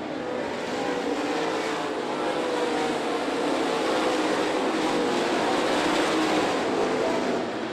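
Dirt late model race cars' V8 engines running at full throttle as the field laps the track. Several engine notes overlap, swelling as the cars come past and dropping away near the end.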